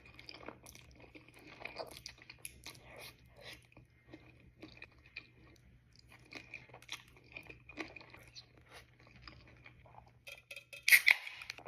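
Close-miked eating sounds: a person chewing, with many small wet clicks and smacks of the mouth. A brief louder sound comes about eleven seconds in.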